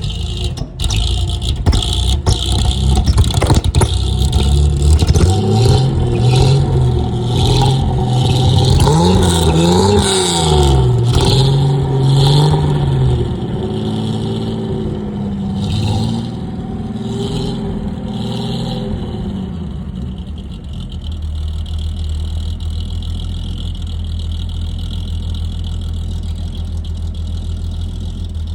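Car engine revved up and down several times, then settling to a steady idle for the last several seconds.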